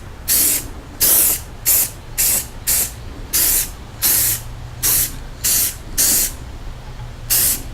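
Rust-Oleum aerosol spray-paint can being sprayed in short bursts: about eleven quick hisses, each under half a second, with brief pauses between them.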